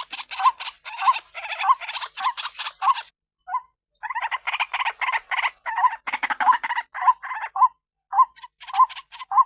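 Female white-breasted waterhen calling: harsh, raspy croaking notes repeated about twice a second in long runs, with two short breaks, one about three seconds in and one near the end. It is the female's call used as a lure to draw waterhens in.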